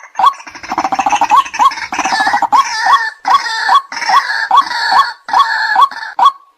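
White-breasted waterhen calls: a steady series of short, hooked notes, about two a second. Soon after the start they are joined by a harsh, croaking chorus that drops away near the end.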